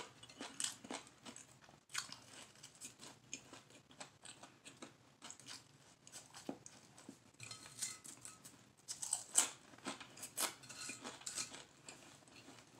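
Chewing and mouth sounds of a person eating a sub sandwich, made up of many short, irregular soft clicks and smacks.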